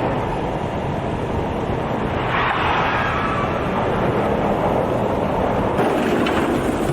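Steady road-vehicle noise with some wind on the microphone, swelling briefly about two and a half seconds in.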